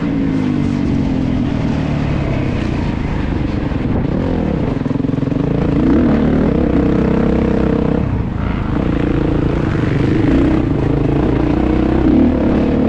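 Kawasaki KX450's four-stroke single-cylinder engine running under a motocross rider, its pitch rising and falling several times as the throttle is worked through the track. The engine noise is loud and continuous.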